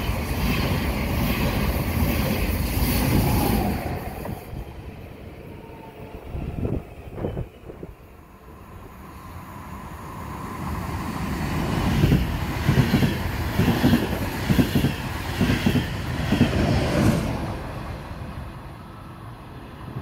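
Trains passing on a railway line: one passes loudly and dies away about four seconds in, then another comes up and passes with a quick rhythmic clatter of wheels over the track, about two beats a second, before fading out.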